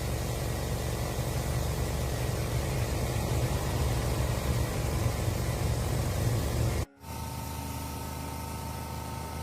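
A motor-driven machine running steadily with a low hum and hiss. About seven seconds in, after a brief dropout, it is replaced by quieter steady running with a thin whine.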